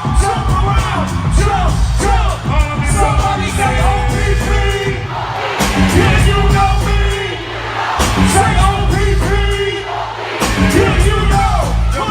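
Live hip-hop performance over a concert PA: a heavy bass beat with vocals over it and a crowd, the bass dropping out briefly twice.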